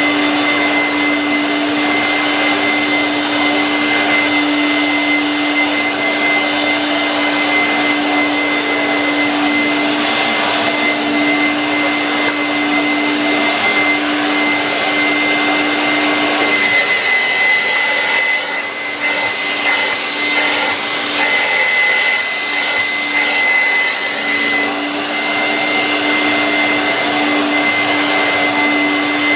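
1986 Vorwerk VK 117-1H upright vacuum cleaner with straight suction running steadily, a very noisy motor hum with a thin high whine as it sucks up dust and debris. A little past halfway the low hum drops away and the sound dips briefly, then the hum returns.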